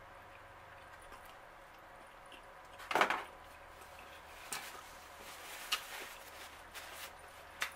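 Faint mouth sounds of chewing a last bite, with one short, louder mouth noise about three seconds in. From about four and a half seconds on, a paper napkin is picked up and folded, giving scattered small rustles and clicks.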